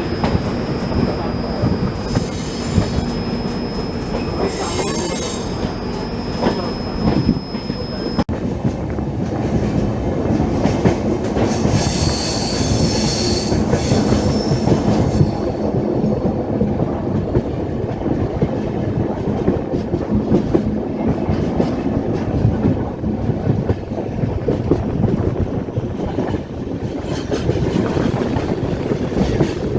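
Swaraj Express passenger coach running on the track, heard from on board: a steady rumble and clatter of the wheels over the rails, with bursts of high wheel squeal, the loudest about halfway through.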